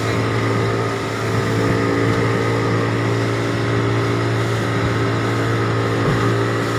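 Boat engine running steadily, a constant low drone with a few steady tones over it.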